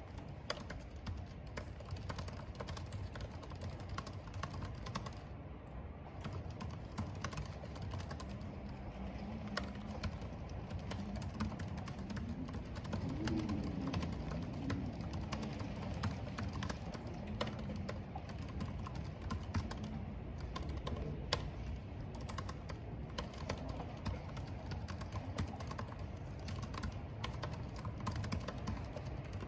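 Computer keyboard typing: irregular, quick keystroke clicks over a steady low rumble of wind and rain. A faint, low wavering tone rises and falls through the middle.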